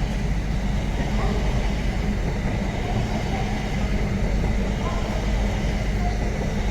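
Steady low rumble and hum of a train standing at a station platform, with voices in the background.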